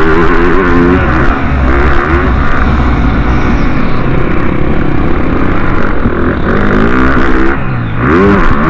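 Motocross motorcycle engines revving hard, the pitch rising and falling again and again with the throttle, with a steady low rumble beneath.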